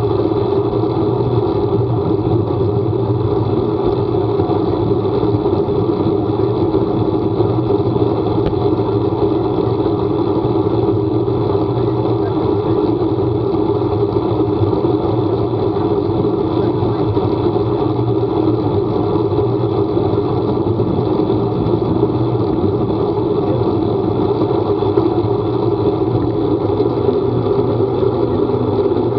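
Steady vehicle engine and road noise while driving, an unchanging low hum with no revving or pauses.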